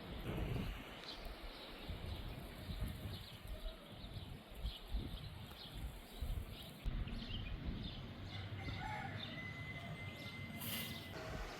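Wind gusting over the microphone in an uneven low rumble, with faint short bird chirps above it and a brief thin whistle-like tone about two-thirds of the way in.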